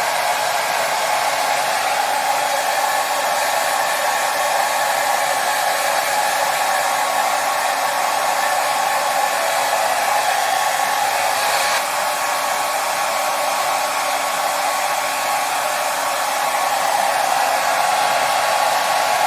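Hair dryer running steadily: a continuous rush of blown air with a faint low motor hum under it.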